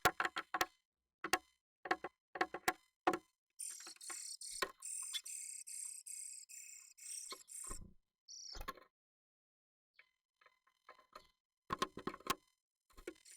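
Japanese tit inside a wooden nest box, tapping and knocking in quick runs of sharp, ringing taps. In the middle there is a stretch of about four seconds of harsh, high, scratchy pulses, and the taps return near the end.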